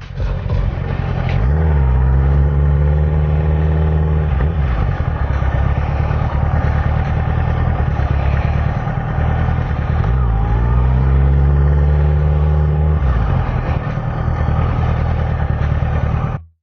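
Kawasaki ZX-6R's inline-four engine running under way, rising in pitch as it accelerates twice, with a brief dip between gears. The sound cuts off suddenly near the end.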